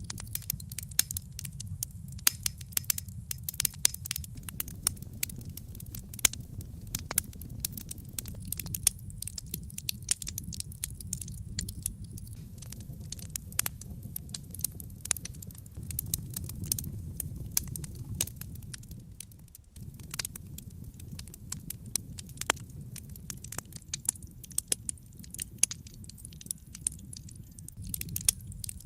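Wood fire crackling in a fireplace: many sharp, irregular pops and snaps over a steady low rumble, which briefly drops away about two-thirds of the way through.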